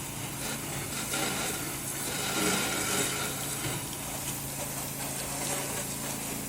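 Pressure washer engine running steadily, with the hiss of water spraying from the wand during a rinse.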